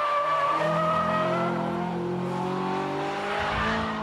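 Mitsubishi Mirage Cyborg-ZR's 1.6-litre 4G92 DOHC inline-four running under load as the car is driven through a bend, its engine note fairly steady and easing off slightly near the end.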